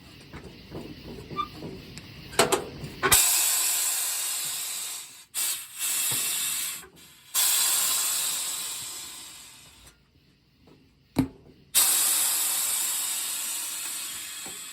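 Compressed air hissing into a freshly mounted tire in three long bursts, each fading as it runs and stopping sharply. The bursts come after a few seconds of small clicks and clanks, and a single sharp click comes between the second and third.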